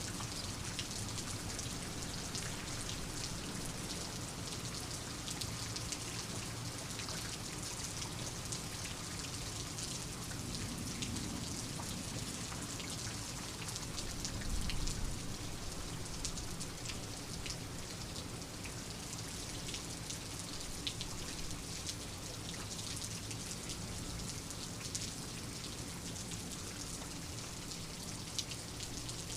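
Steady rain falling, with many separate drop hits ticking through the hiss. A brief low rumble swells about halfway through.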